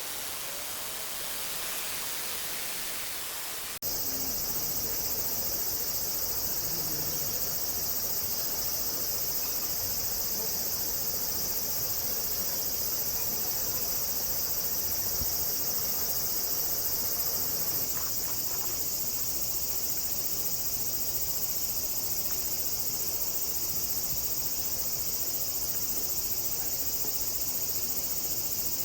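Steady rushing noise like flowing river water for the first few seconds, then a sudden cut to a steady, high-pitched chorus of insects shrilling continuously.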